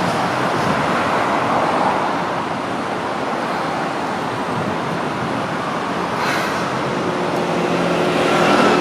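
Steady traffic noise at a busy city intersection, vehicles passing. Near the end a steady pitched hum from a large vehicle comes in and the sound gets a little louder.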